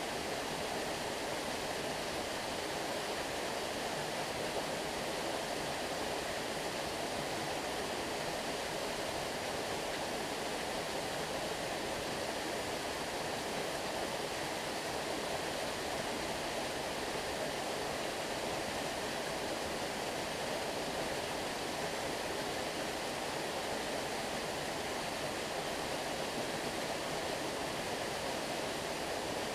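Stream water running steadily, an even rushing sound with no single splash or other event standing out.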